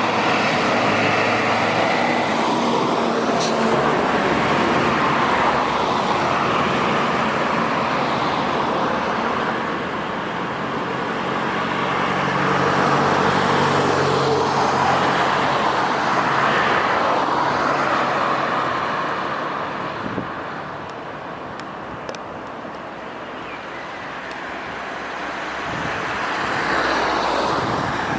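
Road traffic passing on a street, the noise swelling and fading as vehicles go by, with a quieter lull a little before the end.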